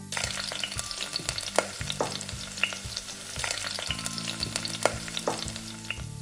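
Breadfruit snack frying in hot oil, a steady sizzle with many sharp crackles and pops.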